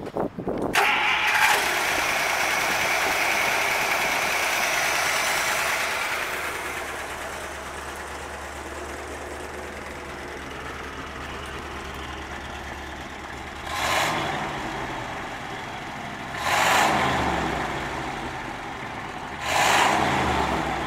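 The rebuilt 322 cubic-inch V8 of a 1955 Buick Roadmaster starts about a second in and runs at a fast idle for several seconds. It then settles to a steady lower idle and is revved three times, near the middle, a little later and near the end.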